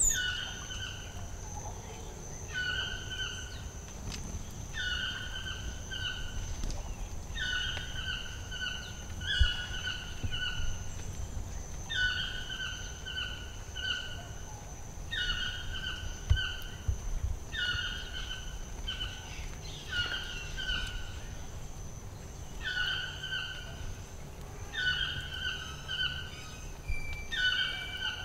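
A bird repeating a short call phrase over and over, about every one to two seconds, over the steady high drone of insects.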